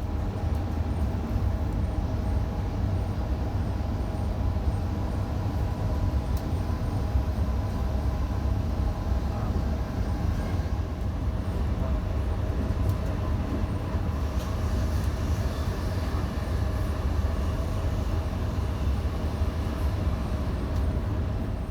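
Electric passenger train running at speed, heard from inside the carriage: a steady low rumble of wheels on track with a faint even hum from the traction equipment.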